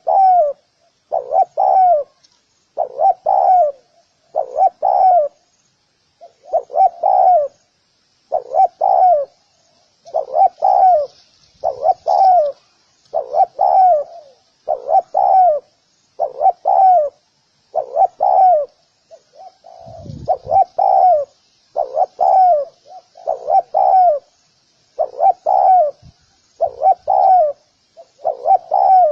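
Spotted dove cooing, repeating its short phrase of several coos about every one and a half to two seconds. Faint high chirping runs under it throughout.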